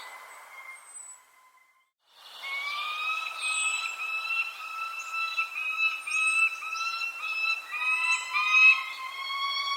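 Birds chirping, with short high calls over a loud, steady whistle-like tone with overtones that wavers in small steps. The sound drops to near silence for about a second, starting just over a second in, then comes back.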